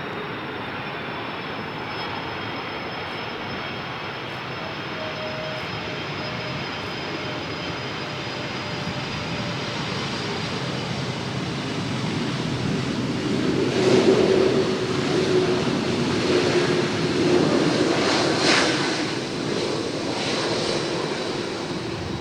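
Jet airliner engines: a steady rush with a high whine that slowly falls in pitch, growing louder to a peak a little past the middle as the aircraft passes, then easing slightly.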